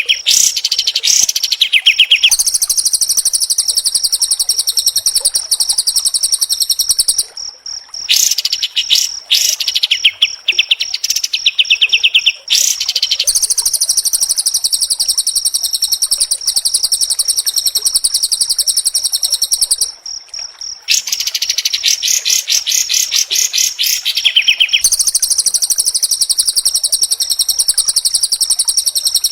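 Caged songbird singing long harsh, buzzing runs of very fast repeated high notes, each run lasting several seconds with brief pauses between them, the kind of rough song played as training material to make a white-rumped shama sing.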